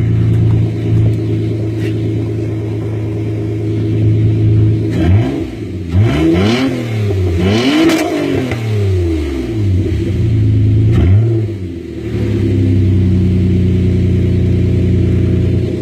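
Car engine with an upgraded aftermarket exhaust idling, then revved in a few quick throttle blips about a third of the way in, each rising and falling in pitch, with one more short blip later before it settles back to a steady idle.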